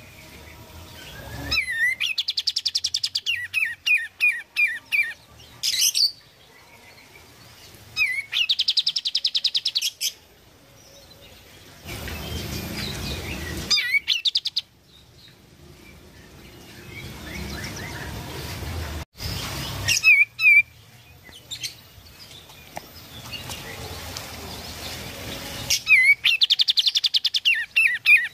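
Kapas tembak singing in repeated bouts: fast trilled phrases and sharp down-slurred chirps, with pauses between bouts. In the middle stretch a steady hiss-like noise takes over between phrases.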